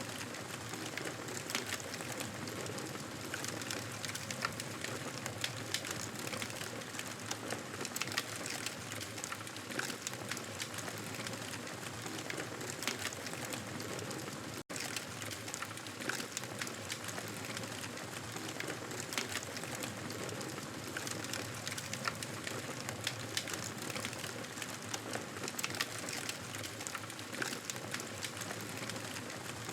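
Fireplace ambience: a steady hiss dotted with many small crackles and pops. The sound cuts out for an instant about halfway through.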